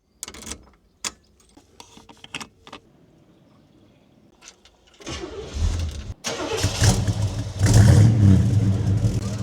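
A few clicks and knocks, then about five seconds in the starter cranks and the 1968 Oldsmobile 442's 400 cubic-inch V8 fires through its true dual exhaust, revving up and running deep and loud.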